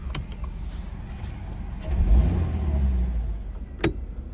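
2024 Toyota GR86's 2.4-litre boxer four-cylinder idling, heard from inside the cabin, swelling briefly about halfway through. A sharp switch click near the end.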